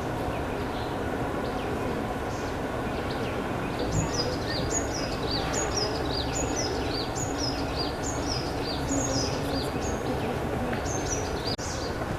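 A bird calling over and over, about twice a second: each call is a short high note that drops into a falling sweep. It starts a few seconds in and stops near the end, over a steady outdoor background hiss.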